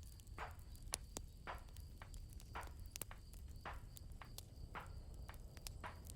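Campfire crackling: irregular sharp pops and snaps over a low steady rumble, with crickets chirring steadily and softly behind.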